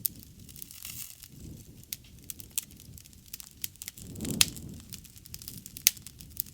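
Wood bonfire crackling with many sharp pops. The loudest pop comes about four and a half seconds in, with a brief low rush of flame, and another strong pop comes near six seconds.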